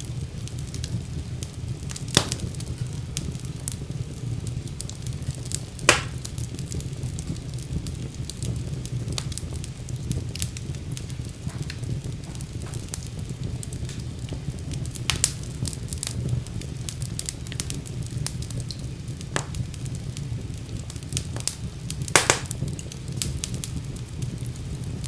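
Fire burning in a fireplace: a steady low rumble with frequent small crackles and a few louder pops about 2, 6, 15 and 22 seconds in.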